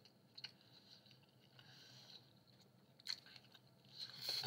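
A person quietly chewing a mouthful of rising-crust Hawaiian pizza close to the microphone, with a few soft mouth clicks and louder chewing near the end.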